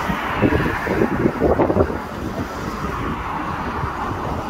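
Hokuso Railway 7300 series electric train pulling away from the station, its running noise heard across the tracks. Wind buffets the microphone, strongest in the first half.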